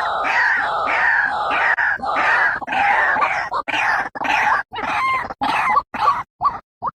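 White-breasted waterhen calling: a loud, rapid run of repeated notes, about three a second. Over the last few seconds the run breaks up into shorter, sparser notes with gaps between them.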